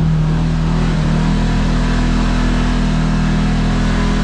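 Kawasaki KRX side-by-side's engine running steadily under way, a constant drone that lifts slightly about two seconds in.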